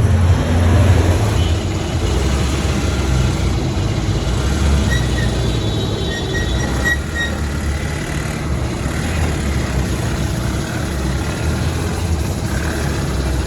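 A steady low vehicle-engine rumble with ongoing road noise, and a faint thin tone briefly heard in the middle.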